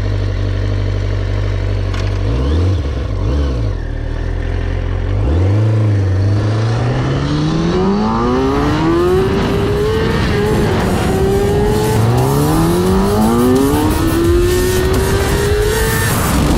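2004 Kawasaki ZX-6R's inline-four engine idling, blipped twice, then pulling away and accelerating hard, its note climbing and dropping back through several gear changes.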